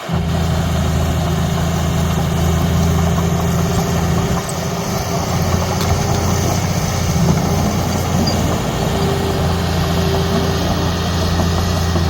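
Heavy diesel engine of earthmoving machinery running steadily, with a low, even hum; it comes in suddenly at the start.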